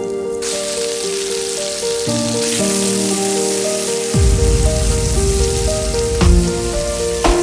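Raw chicken pieces dropped into hot oil and garlic in a wok, sizzling from about half a second in. From about four seconds a spatula stirs and scrapes the chicken around the pan, with two sharp knocks near the end, over background music.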